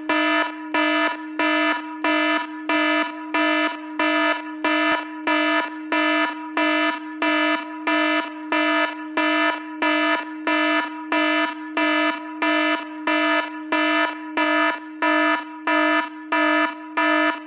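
Electronic alarm tone beeping evenly, about three buzzy beeps every two seconds, over a steady low tone that holds between the beeps.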